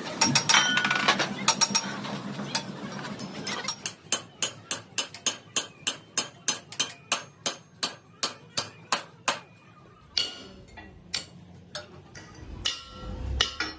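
A hammer striking metal: a few loud, ringing clangs, then a steady run of blows about three a second for five seconds or so, then scattered strikes near the end.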